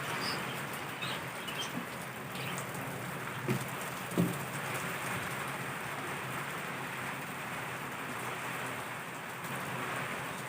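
Heavy rain pouring steadily, with two dull knocks about three and a half and four seconds in.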